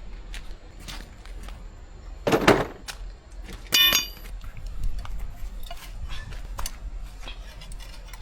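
Metal hand tools clinking and knocking as they are handled, with a scraping clatter a little over two seconds in and a sharp ringing clink just under four seconds in.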